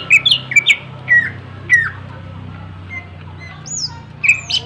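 Greater green leafbird (cucak ijo) singing loudly: sharp, falling whistled notes, spaced out at first, then a quick run of them near the end, part of its song of mimicked phrases (isian).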